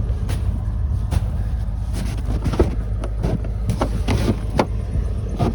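A vehicle engine running with a steady low rumble, with scattered knocks and clicks over it.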